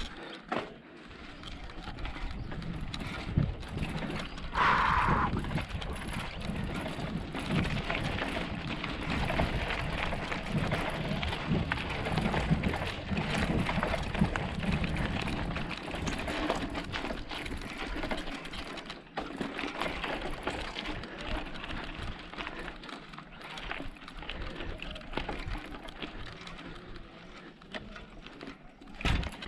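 Bicycle being ridden over a rough track: a steady jumble of rolling and mechanical noise, with a brief higher-pitched sound about five seconds in.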